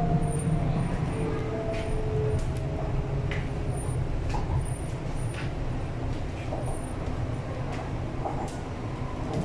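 Inside an MTR East Rail R-Train electric multiple unit running on the line: a steady low rumble of wheels and running gear, with a few short, faint tones in the first couple of seconds.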